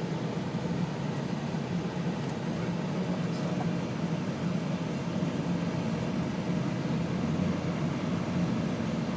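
Steady road and engine noise inside a moving car's cabin: an even low hum with a hiss over it.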